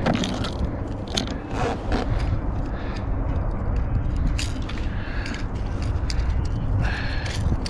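Wind buffeting the microphone with a steady low rumble, over scattered clicks and short rattles from handling a caught fish and working a rattling lipless crankbait (rattle trap) out of its mouth.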